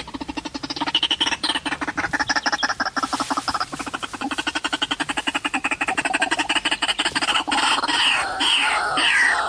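White-breasted waterhen (ruak-ruak) calling: a fast, croaking pulsed chatter. About three quarters of the way through it changes to louder repeated falling calls.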